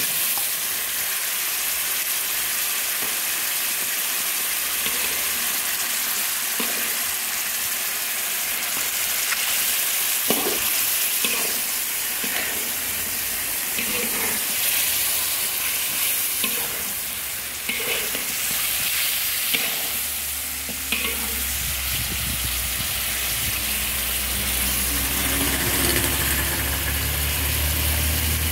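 Chicken pieces sizzling in red chilli sauce in a steel wok, with a spatula stirring and now and then knocking and scraping against the pan. About two-thirds of the way through, a low steady engine hum starts and keeps going.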